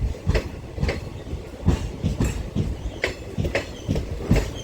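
Passenger train rolling over the track, its wheels clattering over rail joints in a run of sharp, uneven clacks over a steady low rumble.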